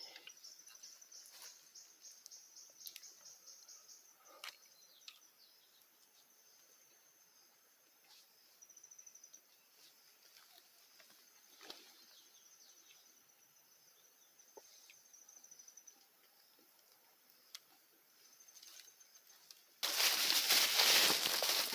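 Outdoor forest ambience: a thin, high-pitched trill that comes and goes, from an insect or a bird, over scattered faint clicks. About twenty seconds in, a loud rush of noise takes over.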